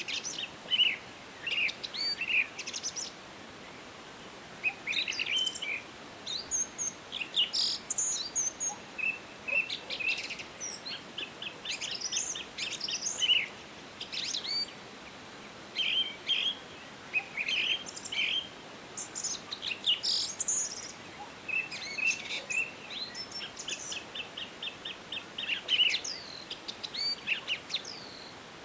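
Several songbirds singing and calling in a forest, overlapping chirps, quick trills and short whistles that come and go every second or two, over a faint steady background hiss.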